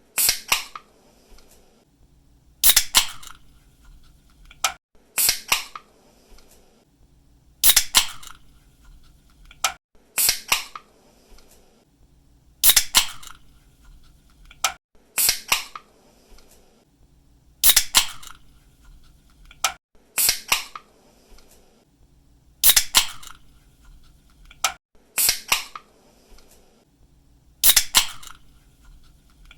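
A pull-tab drink can being cracked open over and over, about every two and a half seconds. Each opening is a small click of the tab, then a sharp pop with a short fizz of escaping gas.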